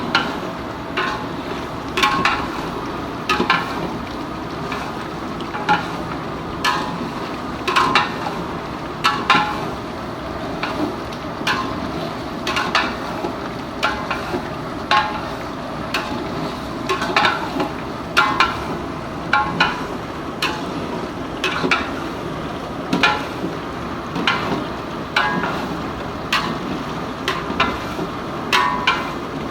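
A cooking spoon stirring chicken gizzards in a pot, knocking and scraping against the pot about once a second, over a steady sizzle of frying in oil.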